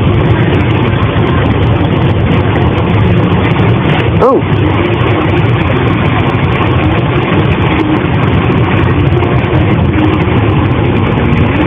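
Heavy rain drumming steadily on a car, heard from inside the cabin.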